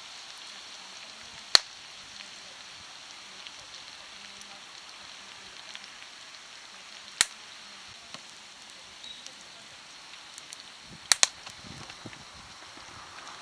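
Wood fire burning with a faint steady hiss, split by sharp cracks: once about a second and a half in, again about seven seconds in, and a quick double crack near the end.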